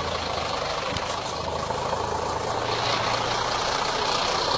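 Scania bus diesel engine running steadily, a little louder from about three seconds in.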